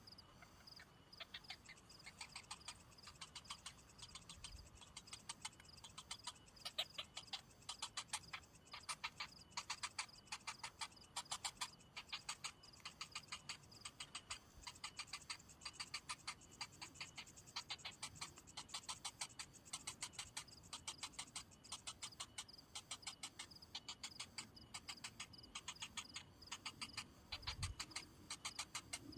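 Rapid series of short ticking animal calls, several a second in uneven bursts, over a faint steady high-pitched hum.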